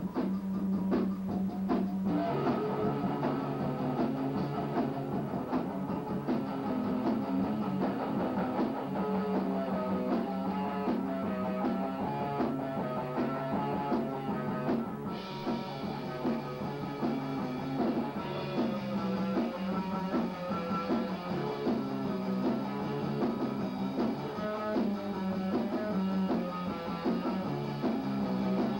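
Rock music with electric guitar, bass and a drum kit playing steadily.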